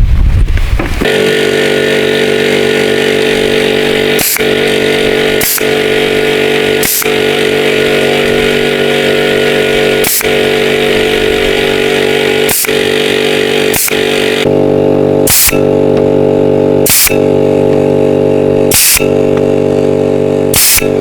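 A small-engine power tool, of the kind used to cut bamboo, starts about a second in and then runs steadily. Sharp clicks break in every second or two, and the higher hiss drops away about two-thirds of the way through.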